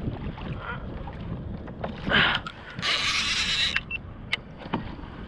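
Fishing reel on a kayak during the fight with a hooked blackfin tuna, over water and hull noise. About three seconds in, the drag gives out a sharp hissing burst of line for about a second.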